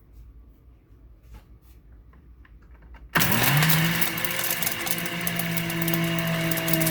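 Kitchen blender switched on about three seconds in, spinning up quickly and then running at a steady speed, churning a liquid mix of pencil graphite, dish soap and water. A few faint clicks before it starts.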